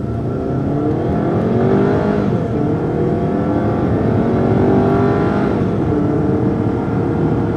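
Turbocharged 2.0-litre four-cylinder crossover engine accelerating hard: its pitch rises, drops twice as the automatic transmission shifts up, then holds steady.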